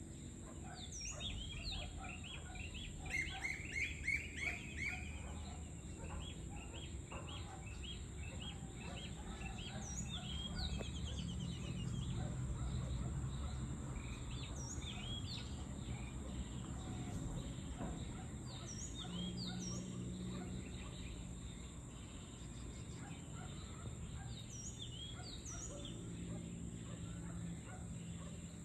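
Birds chirping and calling, with a burst of louder chirps about three to five seconds in and short falling notes repeating now and then, over a low background rumble.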